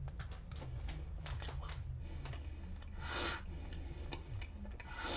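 Chewing a crunchy piece of freeze-dried pear: a run of small, crisp crunches, with two short rushes of noise, about three seconds in and at the end.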